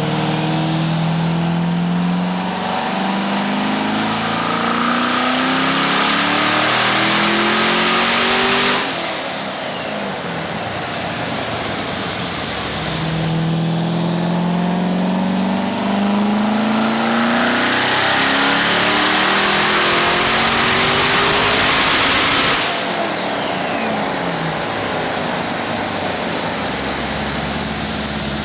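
Twin-turbo Corvette Z06 V8 making two full-throttle dyno pulls, the engine pitch climbing steadily through the revs with a rising turbo whistle over it, each pull cut off abruptly when the throttle is lifted. These are low-boost pulls on wastegate, about 13 psi.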